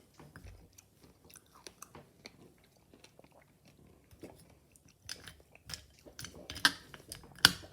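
A person chewing a mouthful of nature's cereal (pomegranate seeds, blueberries and coconut water), with small wet crunches and clicks. The clicks grow louder and sharper over the last few seconds.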